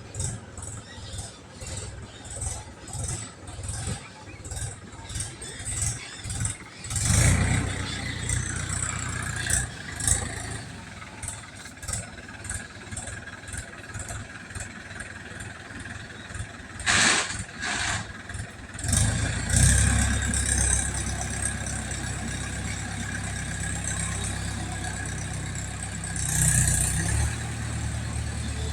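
A small engine chugs unevenly for the first several seconds, then settles into a steady low drone. A few sharp knocks come about 17 seconds in, and the engine then runs steadily again.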